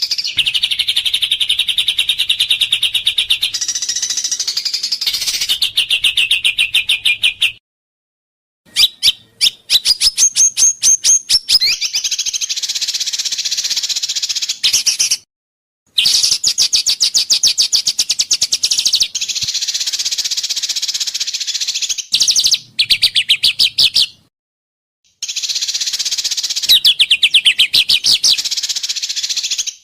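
Recordings of small songbirds spliced one after another, each singing fast runs of sharp repeated notes and trills, the rapid-fire 'tembakan' phrases of a bird-song masteran. Each recording cuts off abruptly, with short silences about 8, 15 and 24 seconds in.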